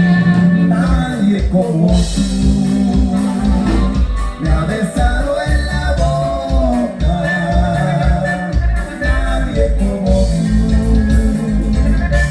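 Norteño band music with a singer over a steady, pulsing bass beat.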